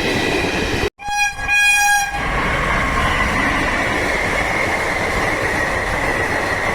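Diesel locomotive horn of an Indian Railways train sounding a short blast of about a second, about a second in, right after a brief cutout. The train then runs on with a steady rumble and a high, steady whine.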